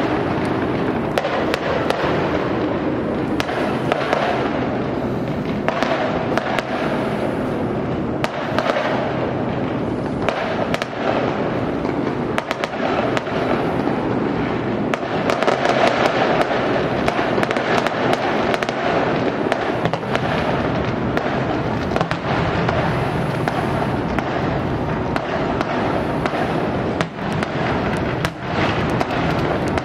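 Many fireworks and firecrackers going off at once, a dense, unbroken din of pops and sharp cracks with no pause.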